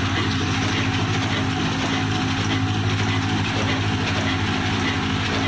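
Old Ruston Hornsby stationary diesel engine running steadily: an even low engine note with a fine, rapid beat, over a steady hiss.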